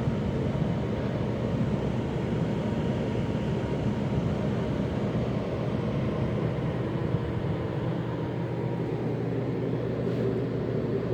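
Air conditioning unit running steadily: fan noise with a low, even hum.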